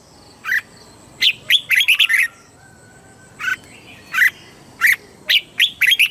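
Red-whiskered bulbul singing: short phrases of quick whistled notes, several phrases with brief pauses between them.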